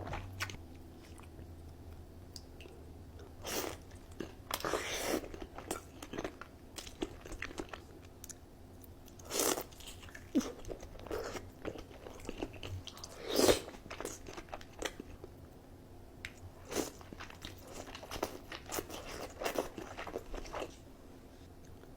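A person eating crunchy food: irregular crunchy bites and chewing, with the loudest crunch about two-thirds of the way through.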